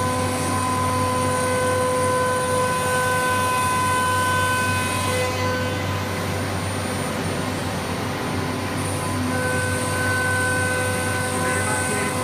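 Running CNC nesting router (COSMEC FOX) with a steady high-pitched spindle whine over machine noise. The upper part of the whine drops away for a few seconds partway through, then returns.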